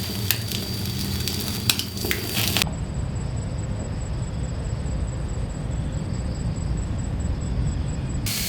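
Wood fire crackling with sharp pops, then, after a sudden change about two and a half seconds in, a low steady rumble.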